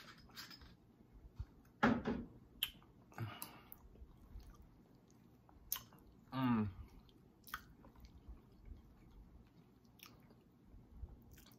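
Close-miked chewing, with mouth clicks and smacks, from a person eating fried fish and mashed potatoes. Two short hummed 'mm' sounds with falling pitch come about two seconds in and past the middle.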